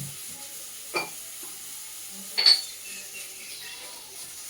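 A spoon clinking twice against a bowl while flour is scooped and handled, once about a second in and again, more sharply with a short ring, about a second and a half later, over a faint steady hiss.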